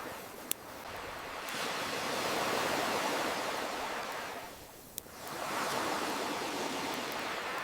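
Ocean waves surging and receding in slow swells, with a lull about five seconds in, mixed with a wood campfire giving a sharp single crackle near the start and another at the lull.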